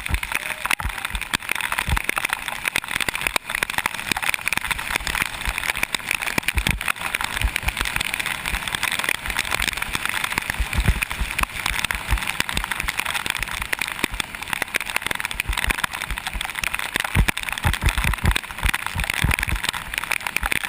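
Bicycle riding downhill on a wet road in rain: a steady hiss of tyres and water spray, with irregular low thumps from wind buffeting and bumps.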